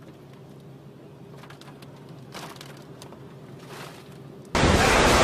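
Faint steady hum with a few soft rustles, then, about four and a half seconds in, a sudden loud rush of strong wind battering the microphone.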